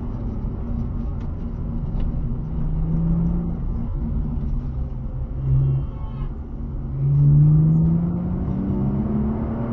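Sports car engine heard from inside the car, running under load along the road. There is a brief louder surge a little past halfway, then the engine accelerates with its pitch rising steadily, over tyre and road noise.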